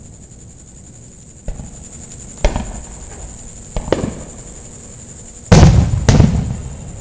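Aerial fireworks exploding close by: a few sharp bangs spaced a second or so apart, then two loudest booms about half a second apart near the end, each with a lingering rumble.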